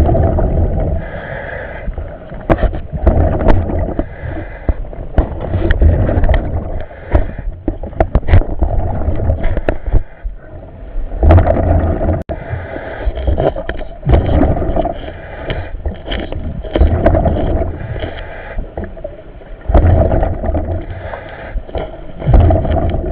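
Water gurgling and sloshing around a diver as he goes down, swelling and falling every few seconds, with scattered sharp knocks.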